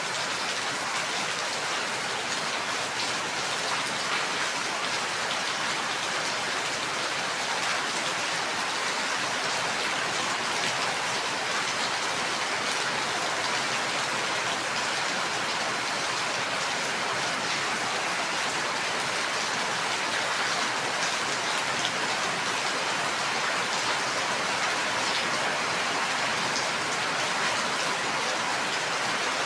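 Steady heavy rain falling, an even hiss of drops on a surface with faint scattered ticks of individual drops.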